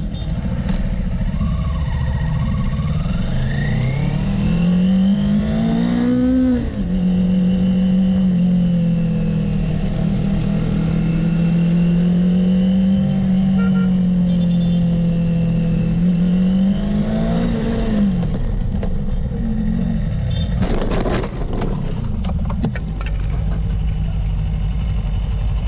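Motorcycle engine accelerating hard, its pitch climbing, then dropping sharply with an upshift about six seconds in. It then cruises at a steady pitch, with loud wind rush over the helmet microphone. It revs up briefly once more, then a few sharp knocks come near the end.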